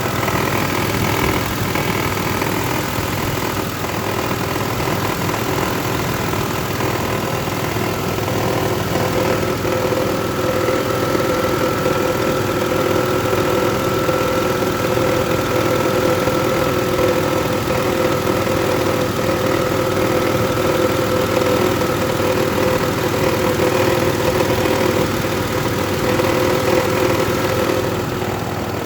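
2007 Mitsubishi Outlander idling with its A/C compressor running, a steady engine hum with a pitched whine that grows stronger about nine seconds in and eases off near the end. The compressor is not building enough pressure because the system is low on refrigerant.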